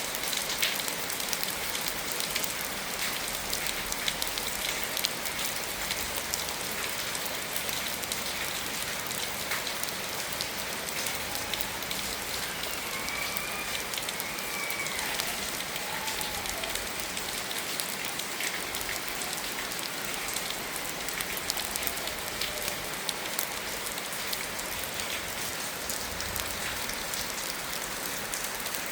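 Steady rain falling on surfaces, with separate sharp drop hits standing out from the wash. About halfway through, a faint wavering tone rises and falls for a few seconds.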